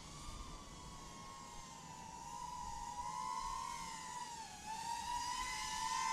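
Small FPV quadcopter's motors and propellers whining. The pitch wavers up and down with the throttle and dips about four and a half seconds in, and the sound grows louder toward the end.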